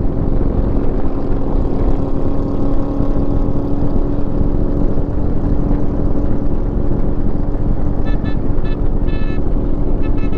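Harley-Davidson motorcycle engine running steadily under way, with wind rushing over the helmet microphone. A few short pitched sounds come near the end.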